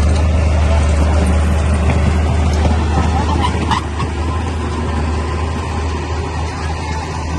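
Bulldozer's diesel engine running steadily with a strong low drone. A brief higher squeal comes about three and a half seconds in, after which the engine sound drops a little.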